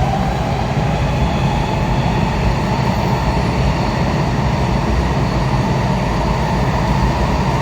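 Kawasaki 7000-series Metrorail car running at speed, heard from inside the car: a steady rumble of wheels on rail with a faint, steady whine above it that grows a little stronger near the end.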